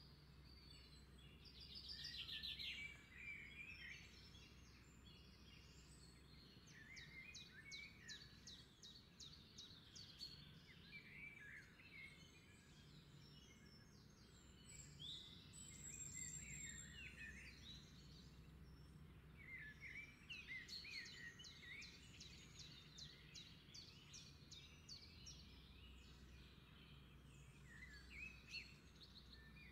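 Faint birdsong: scattered chirps and several rapid trills, over a low steady hum.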